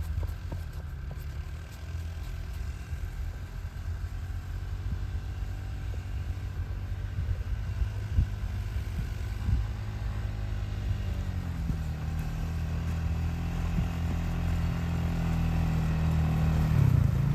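Off-road vehicle engine running at low speed with some clatter. The engine note dips about eleven seconds in, then rises and grows louder near the end as the vehicle picks up speed.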